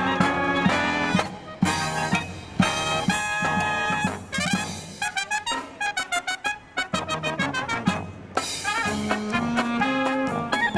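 A marching brass band plays a Disney medley live, with trumpets and trombones holding full chords. In the middle there is a stretch of short, detached notes before the sustained chords return.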